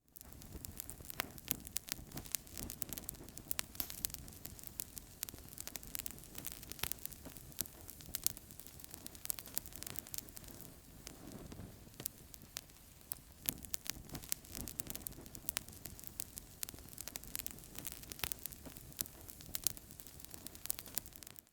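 Wood fire burning in a fireplace, crackling with frequent irregular sharp pops and snaps over a low steady rush of flames.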